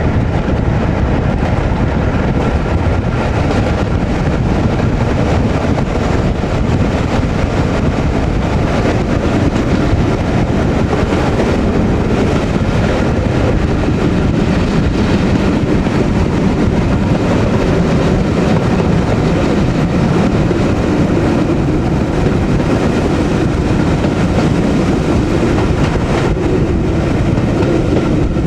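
Passenger train hauled by Class 37 diesel locomotive 37667 running at a steady pace, heard from the train: a continuous, even rumble.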